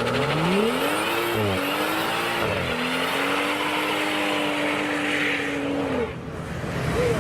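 BMW M-performance turbocharged straight-six accelerating hard: the revs climb, drop back at two quick upshifts, then hold a steady high note before falling away about six seconds in.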